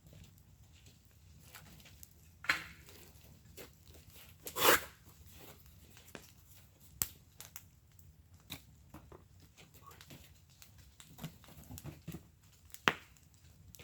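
Wood fire burning in a fire pit, crackling with irregular snaps and pops over a low steady burn; the loudest pops come about two and a half, four and a half, and thirteen seconds in.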